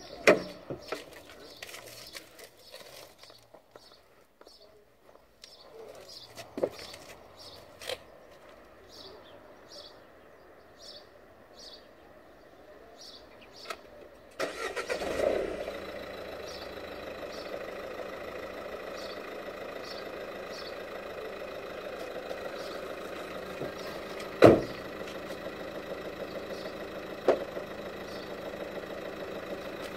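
Renault Megane 3 engine started remotely from a Bluetooth phone app: after a quiet stretch with a few clicks it cranks and catches about halfway through, then idles steadily. A single loud thump comes about ten seconds after the start, and a smaller one follows.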